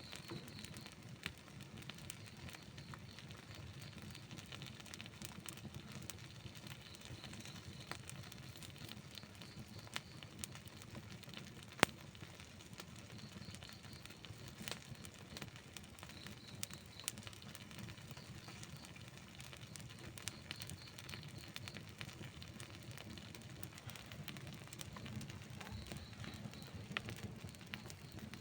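Outdoor wood campfire burning, with a steady soft hiss and constant irregular crackles and pops of burning wood; one sharper pop stands out about twelve seconds in.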